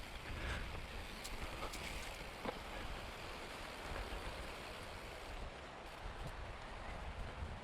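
Mountain bike tyres rolling fast over a dirt trail on a descent: a steady rushing noise with low wind rumble on the microphone and a few sharp clicks and rattles in the first few seconds.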